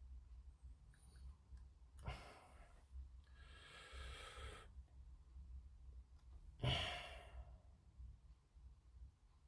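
A man sighing and breathing out: three faint exhalations a second or two apart, the loudest about seven seconds in.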